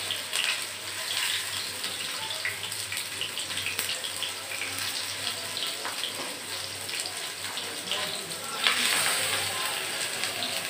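Galawati kebab patties of minced meat shallow-frying in hot oil in a pan: a steady crackling sizzle. About three-quarters of the way in, the sizzle jumps louder as another patty is laid into the oil.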